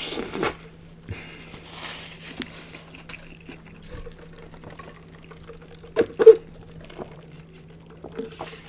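Close-miked eating and handling sounds: soft wet mouth noises and rustling, with two sharp clicks about six seconds in, the loudest moment. A steady low hum runs underneath.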